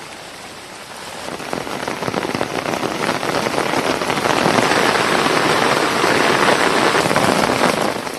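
Heavy rain pouring down in a steady hiss, getting louder about a second in and easing off near the end.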